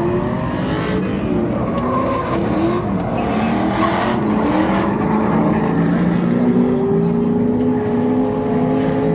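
Several car engines running and revving at once, their pitches rising and falling over one another.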